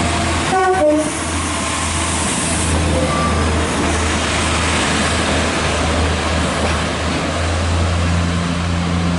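A train running with a steady rumble, and a brief two-note train horn about half a second in, stepping down in pitch.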